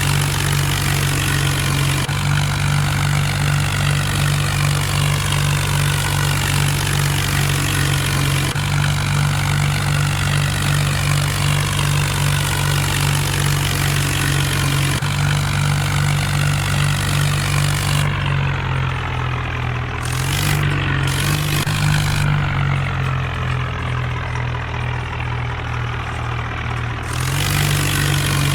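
Mahindra Arjun tractor's diesel engine running steadily while working a rotavator, with a constant noisy layer above the engine note. The engine note drops and thins out about two-thirds of the way through and climbs again near the end.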